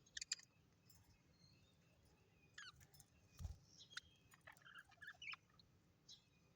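Faint, scattered short chirps and clicks from small parrots, including a quick run of descending notes about two and a half seconds in and a cluster of chirps a couple of seconds later. A soft low thump comes about halfway through.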